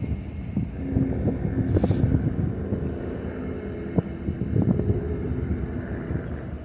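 Diesel locomotives of a slow-moving coal train passing close by: a steady low engine rumble with a faint hum and irregular sharp knocks from the wheels on the rails.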